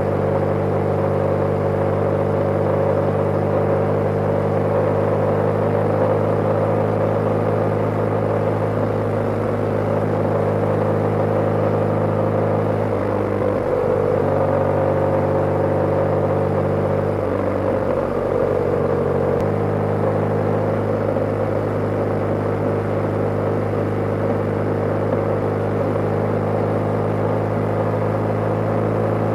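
BMW G/S motorcycle engine running steadily while riding, heard from on the bike, with the engine note shifting briefly twice midway.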